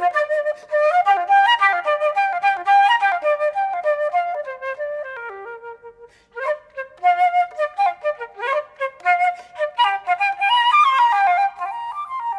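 Solo concert flute playing quick runs of notes, with a short break about six seconds in before the line starts again.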